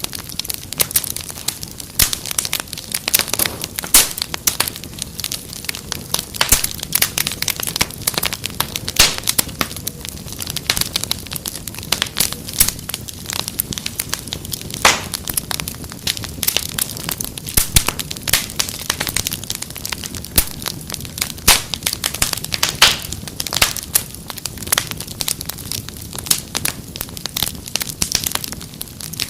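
Wood fire crackling, with dense, irregular pops and snaps over a steady low hiss.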